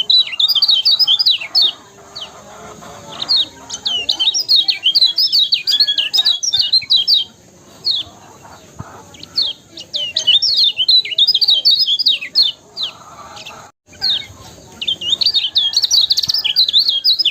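Lemon-bellied white-eye (kecial kuning) singing: fast strings of high, rapid chirps, delivered in four bursts with short pauses between them.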